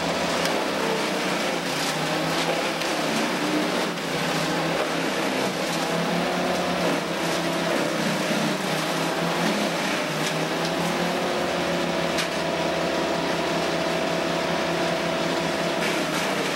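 A motor-driven machine running steadily under load, its engine pitch wavering up and down a little, with scattered sharp ticks.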